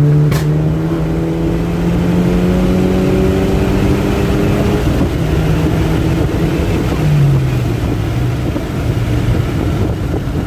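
A turbocharged car engine pulls at a steady pitch for about five seconds, then its note breaks and falls as the throttle comes off. A single sharp crack sounds just after the start, over steady road and wind noise.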